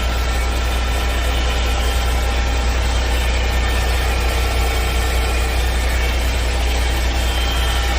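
The Ford 4142P concrete pump truck's 420 hp diesel engine idling steadily with a deep, even hum.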